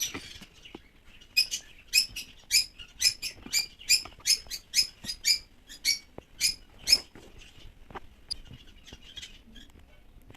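A small bird chirping: a quick run of short, high calls, about three a second, that stops about seven seconds in and leaves only a few faint calls.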